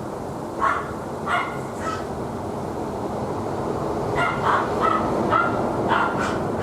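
A dog barking repeatedly: three barks in the first two seconds, then a quicker run of about six starting about four seconds in, over a steady rush of strong wind.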